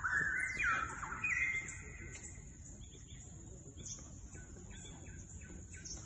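A bird singing a run of loud whistled notes that slide in pitch, fading out about two seconds in, over a steady high-pitched hiss.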